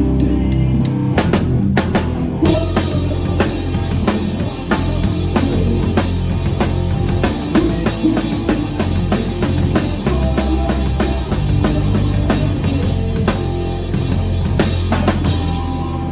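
Live rock band playing: a drum kit keeping a steady beat over bass and guitar, with cymbals joining about two and a half seconds in, stopping near the end.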